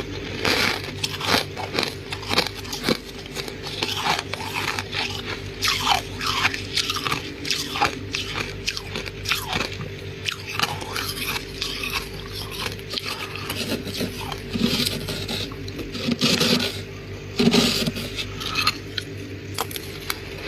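Soft freezer frost being bitten and chewed close to the microphone: dense, irregular crunching, with a few louder bites in the last third, over a steady low hum.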